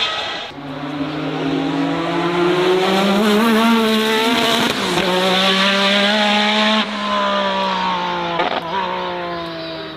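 Race car engine accelerating hard, its pitch climbing and then dropping sharply at two upshifts, about five and seven seconds in.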